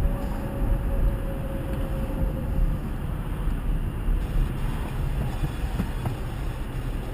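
Car cabin noise picked up by a dashcam's built-in microphone while driving: a steady low rumble of engine and tyres, with a faint steady whine that fades out in the first few seconds.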